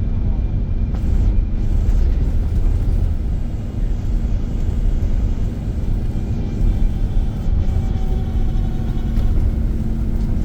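Iveco Crossway LE Line bus under way, with a steady low engine and road rumble.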